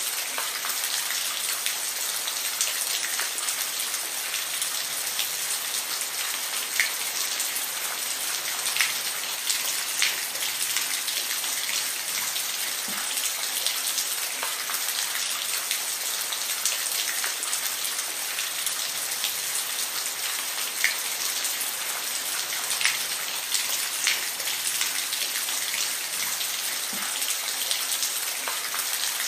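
Steady rainfall: a constant hiss with individual raindrops ticking sharply on a surface every second or so.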